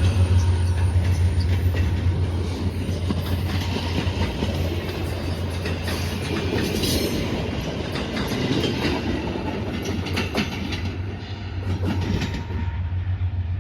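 VIA Rail passenger train departing and rolling past, wheels clicking over the rail joints over a steady low diesel drone. The sound thins and fades near the end as the train moves off.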